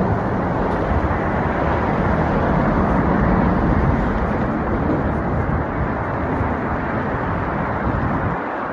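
Steady low rushing noise heard while riding a bicycle, wind buffeting the microphone mixed with road traffic noise.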